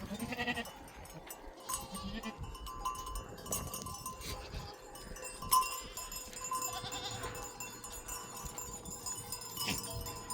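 A flock of sheep bleating now and then, with livestock bells clinking and ringing. A sharp knock about five and a half seconds in is the loudest sound.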